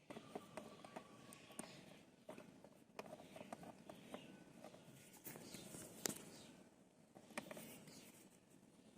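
Faint handling noises of hands working a removed car door check strap: scattered small clicks and light rustling, with one sharper click about six seconds in.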